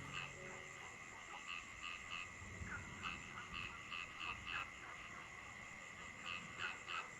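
Frogs croaking at night in short calls that come in small clusters every second or two, over a steady hiss of falling rain and a constant high drone.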